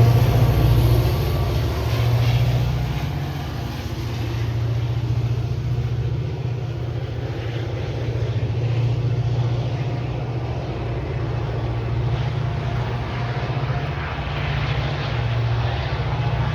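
Diesel locomotive of a commuter train running with a steady low drone.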